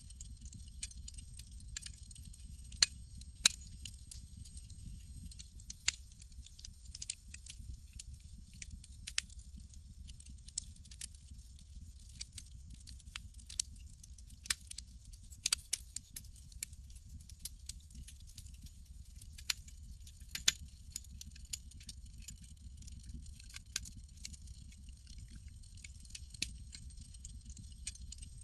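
Campfire crackling: irregular sharp pops and snaps, a few much louder than the rest, over a low steady rumble of burning wood.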